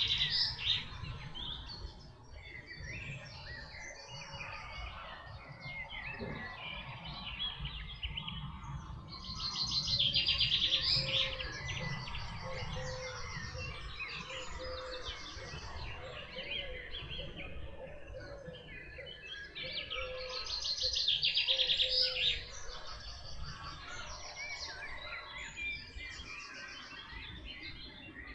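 Birdsong: one bird repeats a loud, rapid, pulsed song phrase about every ten seconds, three times, with other birds chirping in between over a low steady background rumble.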